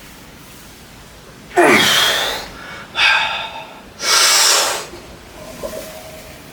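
A person breathing hard through a weight-training set: three loud, forceful breaths, about a second apart, the first with a falling grunt.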